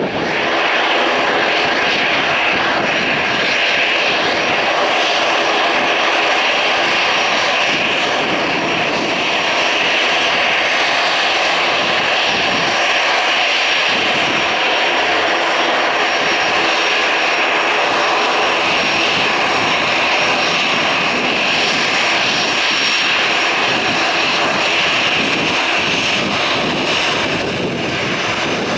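Airbus A321-211 twin jet engines running loud and steady at take-off power as the airliner departs, a broad rushing noise with a stack of steady buzzing tones through it.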